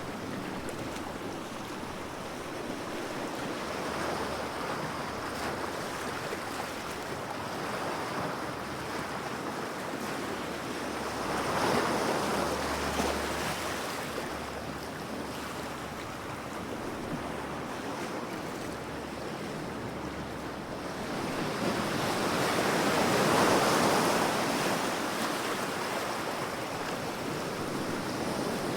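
Ocean waves washing ashore in an even rushing surf, swelling louder as a wave breaks about twelve seconds in and again near the end.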